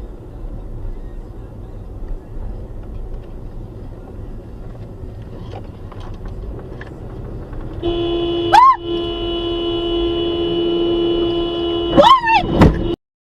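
Steady low road and engine noise, then a car horn held continuously for about five seconds, starting about eight seconds in. Brief sharp sounds cut through the horn twice near its start and end, and the audio cuts off suddenly.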